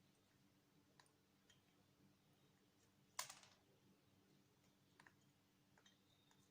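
Near silence with a low hum and a few faint, sharp clicks, scattered singly, the loudest about three seconds in.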